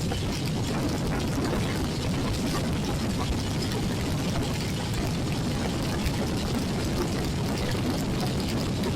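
Royal Enfield Classic 350's single-cylinder engine running on the move, under a steady rush of wind and wet-road noise in heavy rain.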